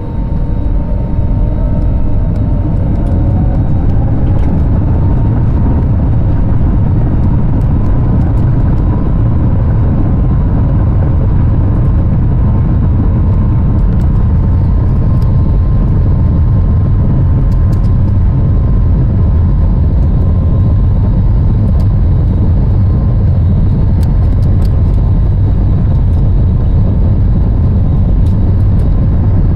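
The Airbus A321neo's Pratt & Whitney geared turbofan engines spool up to takeoff thrust, heard from inside the cabin. A whine rises over the first several seconds and then holds as one steady tone over a heavy, constant rumble through the takeoff roll.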